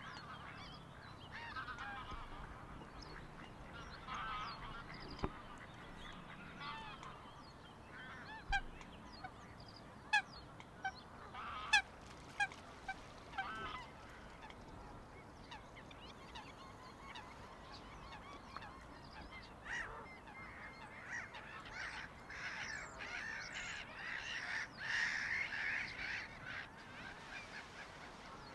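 Birds calling: a run of short, sharp calls in the middle, then a denser stretch of calling near the end.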